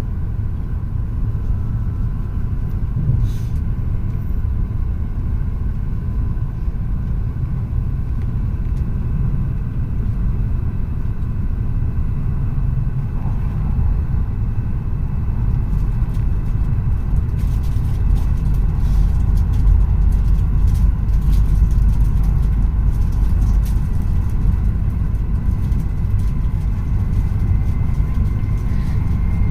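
Tohoku Shinkansen train running at speed, heard inside the passenger cabin: a steady low rumble with faint steady whines above it. From about halfway many faint ticks join in and the rumble grows a little louder.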